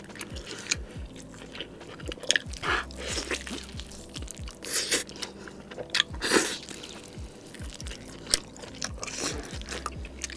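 Close-up wet chewing and biting on tomahawk steak and saucy instant noodles, with irregular smacking mouth noises and several louder bites. Faint background music plays underneath.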